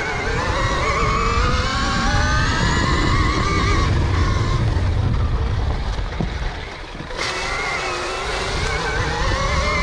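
Electric motor of a KTM Freeride E-XC dirt bike whining under throttle, rising in pitch as the bike speeds up, easing off about four seconds in and again near seven, then climbing once more. Wind rumbles on the microphone underneath.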